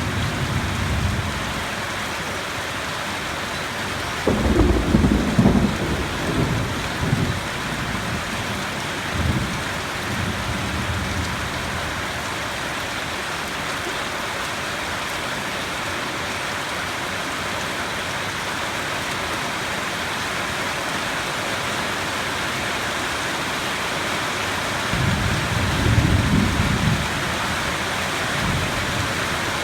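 Steady heavy rain hissing, with thunder rumbling. A sudden clap about four seconds in rolls on for a few seconds, and a second long rumble comes near the end.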